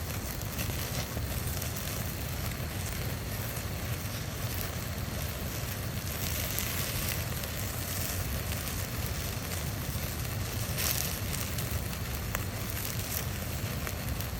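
Firewood burning in a Montbell Folding Fire Pit, a secondary-combustion fire pit: a steady low rush of flames with a few faint crackles.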